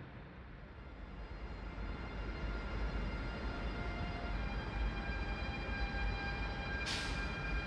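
A train moving through a station: a low rumble that grows louder, with several steady high whining tones coming in, and a short hiss about seven seconds in.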